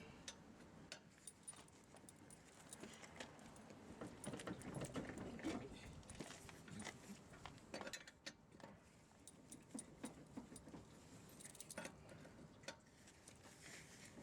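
Faint, irregular metallic clinks and clicks from tyre-changing work, with soft handling noises between them.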